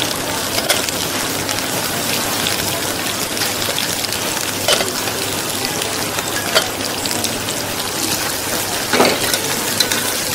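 Food sizzling in hot oil: a steady crackling hiss with a few sharper pops.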